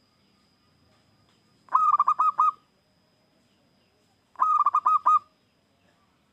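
Zebra dove cooing: two phrases, each a quick run of five or six clear coos lasting under a second, about two seconds in and again near five seconds.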